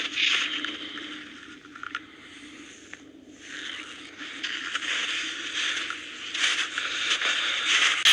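Footsteps crunching through snow, an uneven run of steps that eases off for a second or two in the middle and then picks up again.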